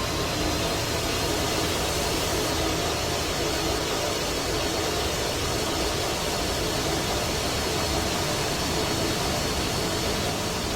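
Steady, even roar of aircraft jet engines with a faint whine held on a few steady pitches.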